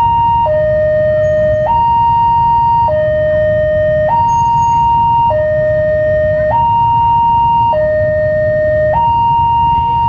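Level crossing warning alarm sounding a steady two-tone hi-lo signal, each tone held about a second, over a low rumble. It signals that a train is approaching and the crossing is closed.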